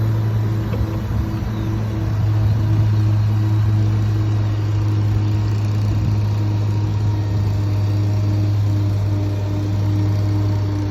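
Ford bucket truck's engine running steadily with the PTO engaged, driving the hydraulics while the aerial boom is rotated. A steady low hum, with a fainter tone above it that wavers.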